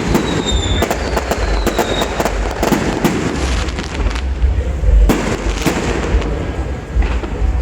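Fireworks display: a dense run of bangs and crackling over a continuous low rumble, with thin high whistles gliding slowly downward during the first couple of seconds.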